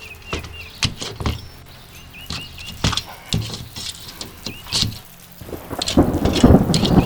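Sheet-metal flashing being pried and peeled off a house: irregular sharp metallic knocks, then a louder run of crinkling and rattling about five seconds in.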